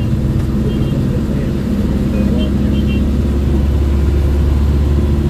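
Car driving: a steady low rumble of engine and road noise that swells slightly near the end.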